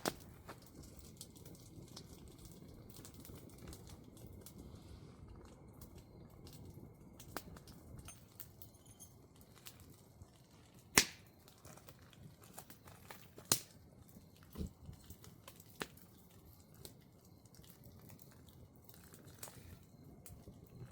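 Irregular small clicks and crackles over a faint steady background, with two sharp louder snaps about 11 and 13.5 seconds in and a duller knock just after.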